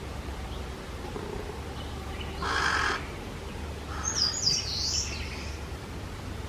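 Bird calls: one harsh call about two and a half seconds in, then a high, squeaky, up-and-down call about a second later.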